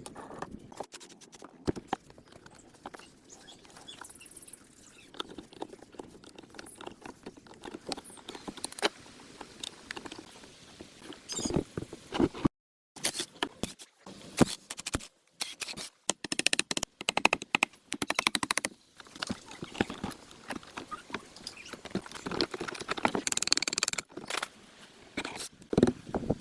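Irregular clicks, taps and scraping sounds, with a short break in the sound about halfway through.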